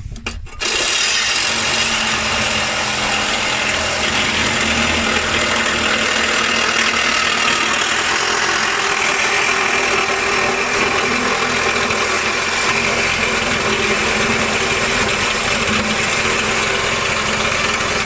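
Power tool running steadily at full speed on the exhaust pipe, with a high whine, starting suddenly about half a second in and running for about seventeen seconds before stopping.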